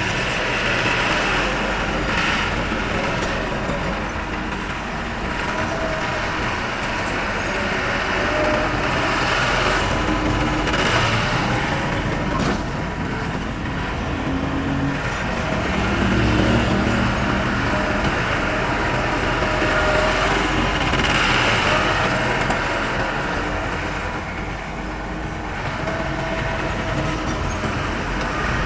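Diesel engine of heavy earthmoving machinery running steadily under varying load, its sound swelling and easing slightly, with a few faint knocks.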